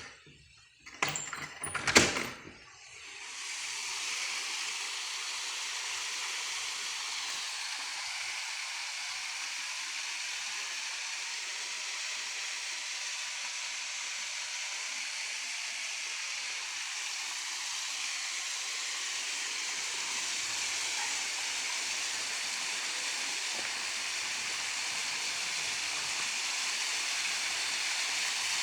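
A few sharp knocks in the first two seconds, then the steady, even rush of a waterfall.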